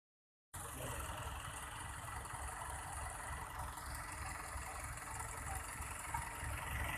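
Heavy farm-machinery diesel engine running steadily with an even low throb, from the harvester or tractors in a harvester-pulling-tractors hitch.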